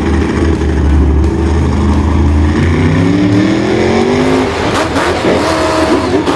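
A vehicle engine running with a low rumble, then revving up in a rising whine about halfway through, followed by a few sharp knocks near the end.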